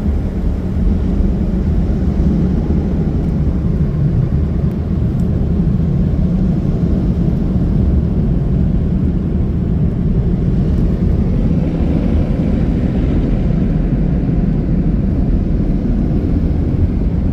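Motor City profiling car-wash dryers blowing air over the car in a loud, steady rush, the hiss growing a little brighter about two-thirds of the way through.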